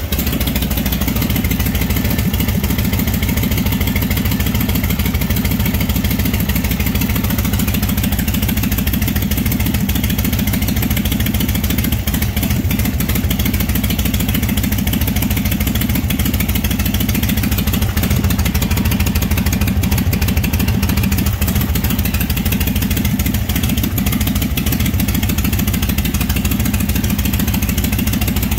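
Flathead Harley-Davidson engine running steadily, with its oil return line open so the scavenging pump's flow, frothy with air, pours out into a drain pan.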